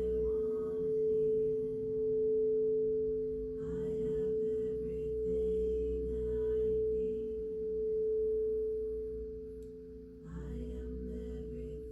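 Singing bowl ringing with one steady mid-pitched tone that swells and fades in slow pulses about every second and a half. It dips briefly near the end, then carries on.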